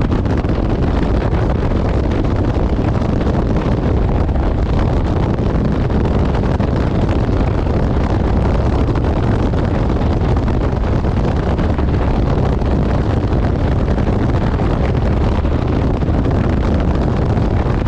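Steady wind rush buffeting the camera microphone on a moving motorcycle, with the Honda CRF1100 Africa Twin's parallel-twin engine running under it at a constant pace.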